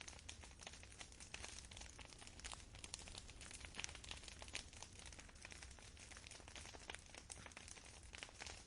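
Campfire crackling faintly: a dense, irregular stream of small pops and snaps, a few louder ones in the middle.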